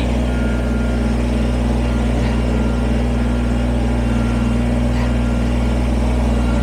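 Kubota BX23S sub-compact tractor's three-cylinder diesel engine running steadily, heard from the operator's seat.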